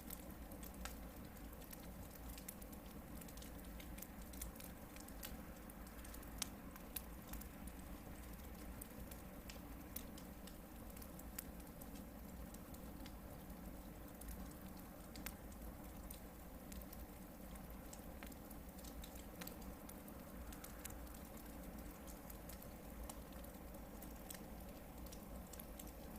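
Hardwood campfire burning steadily, with a soft hiss and frequent small crackles, and now and then a louder pop.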